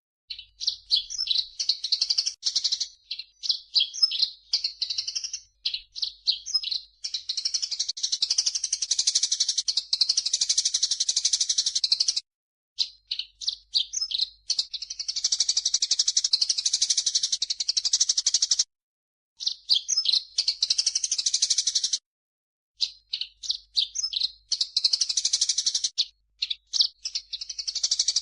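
Recorded calls of grey-cheeked bulbul (cucak jenggot) mixed with Eurasian tree sparrow, played as a training track for songbirds: runs of short, quick chirps alternating with long, dense, high chattering stretches, with brief pauses about 12, 18 and 22 seconds in.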